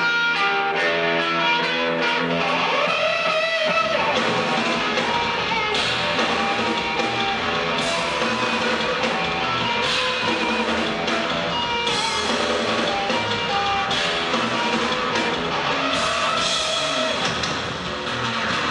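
Live band playing loud electric guitar with drums. The guitar rings on its own at first, with a bending note near the end of that stretch, and the low end and drums come in about three and a half seconds in.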